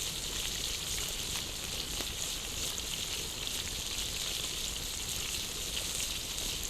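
Food cooking over an open campfire: a steady sizzling hiss with fine crackling.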